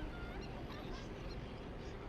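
A few short, faint bird calls over a steady low rumble of wind and riding.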